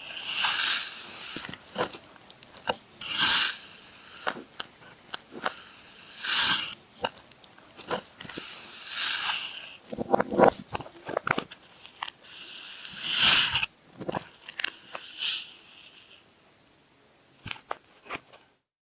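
Kinetic sand crunching as it is pressed and cut, in separate crisp crunches about every three seconds with small crackles between them. It dies away near the end.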